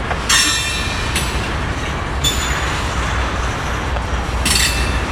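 A train rolling past with a steady low rumble, its wheels squealing on the rail in four short, high-pitched bursts.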